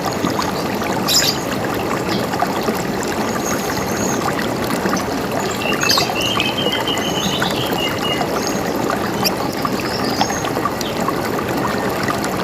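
River water running steadily, with birds calling now and then above it: a sharp chirp about a second in, a short high trill around the middle, and a few brief whistles.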